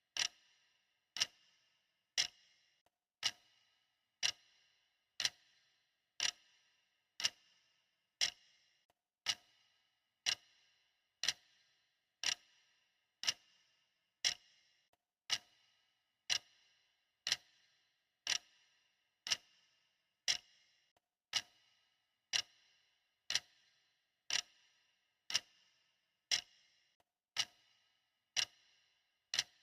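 Clock ticking steadily, one tick a second; each tick is a sharp click with a brief ring.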